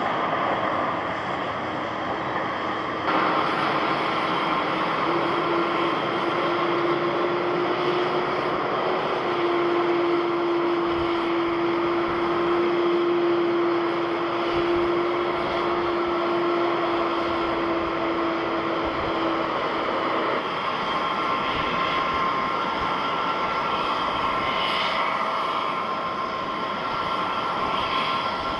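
Jet airliner engines running with a steady noise and a held engine tone. The sound changes abruptly about three seconds in and again about two-thirds of the way through, where the engine sound is edited between aircraft.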